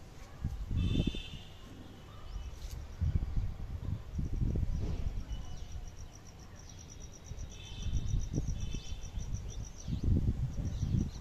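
Small birds or insects chirping: a fast, evenly pulsed high trill that runs for several seconds, short chirps and quick falling high calls. Irregular low rumbling gusts sound underneath.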